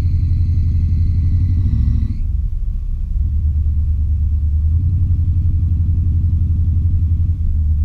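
Chevy 350 V8 in an '86 K20 pickup running under way, with a high, steady accessory-belt squeal that stops about two seconds in while the engine keeps running. The belts are new: the owner thinks something is wrong with a pulley or the belts need tensioning again.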